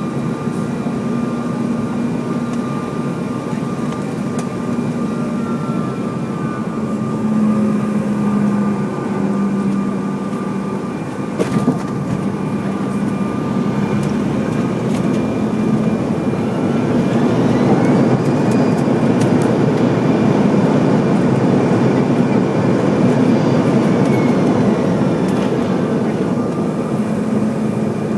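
Jet airliner engines running with a steady rumble and hum. A whine rises about two-thirds of the way through, holds for several seconds, then falls away near the end. A single brief knock comes a little before the middle.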